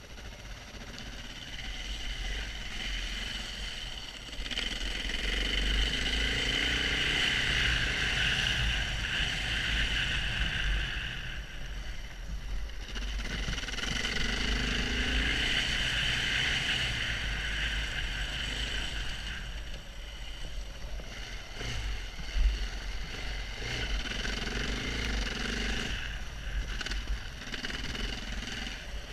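KTM 690 Enduro R's single-cylinder engine being ridden off-road, pulling harder in two long spells and easing off between them, over a constant low rumble. A single sharp knock comes about twenty-two seconds in.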